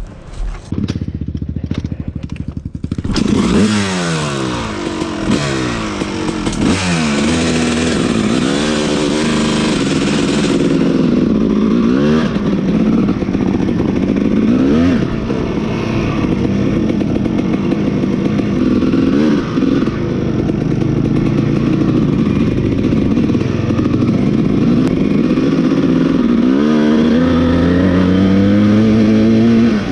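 Dirt bike engine running low and steady for a few seconds, then revving up and down over and over as the bike is ridden.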